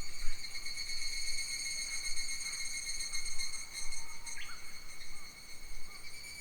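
A steady, high-pitched insect drone with a fine rapid pulse, unbroken throughout. A bird gives a few faint short calls, the clearest a quick sharp chirp a little past four seconds in.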